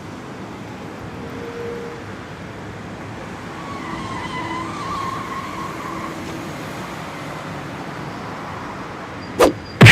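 Steady vehicle running noise from a cartoon sound effect, with two sharp loud hits near the end.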